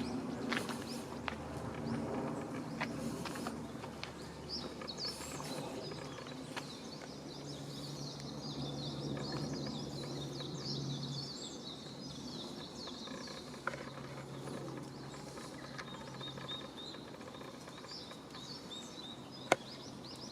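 Outdoor background noise with many small birds chirping in short, high calls throughout, over a faint low hum, with a sharp click near the end.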